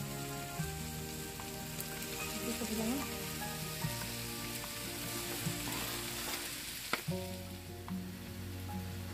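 Diced onion sizzling in olive oil in a frying pan while diced zucchini is added and stirred in with a spatula, with a few sharp clicks of the spatula and vegetables against the pan. Soft background music with held, stepping notes plays throughout.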